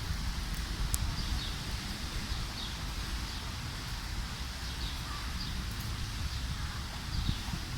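Wind rumbling on the microphone and rustling foliage, with faint, short high bird chirps repeating about every half second to a second.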